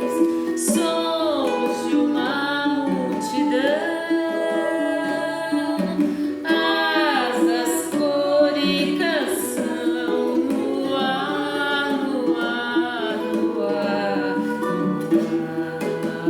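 Women's voices singing a gentle song over a plucked requinto guitar accompaniment.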